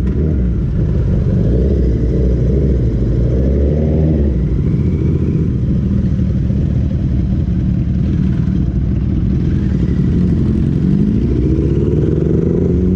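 Motorcycle engine running as the bike rides off, revving up with a rising pitch about four seconds in and again climbing through the gears near the end.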